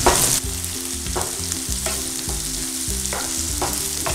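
Chopped spring onion greens sizzling in hot oil in a nonstick frying pan as they are stirred with a wooden spatula, with a few soft scrapes of the spatula against the pan.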